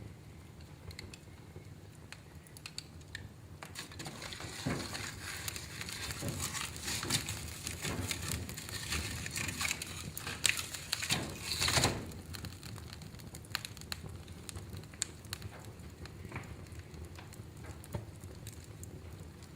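Wood fire crackling and popping in a fireplace, with a low steady hum beneath. The pops come thickest and loudest in the middle, with a quick flurry of them shortly before it settles back to sparse crackles.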